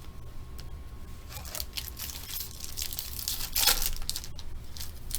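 Foil wrapper of a Panini Prizm UFC trading-card pack being torn open and crinkled, a run of crackling rips loudest about three and a half seconds in, over a steady low hum.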